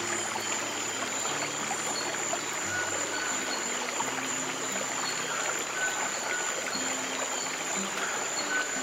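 A steadily rushing stream of running water, with soft, low held music notes underneath that change every second or so.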